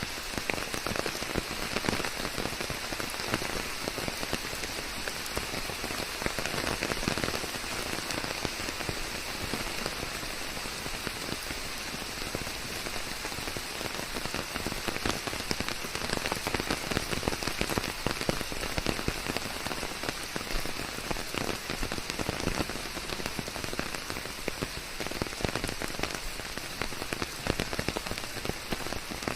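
Steady rain falling on leaves: a dense, even patter of raindrops without letup.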